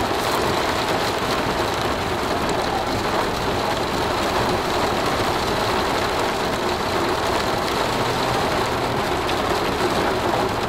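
Heavy rain falling on a vehicle, heard from inside it: a steady, even hiss.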